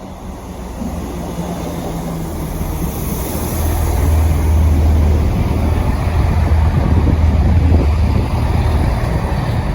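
Class 166 Turbo three-car diesel multiple unit pulling into the platform, its diesel engines making a low drone. The drone grows louder over the first few seconds, then holds steady.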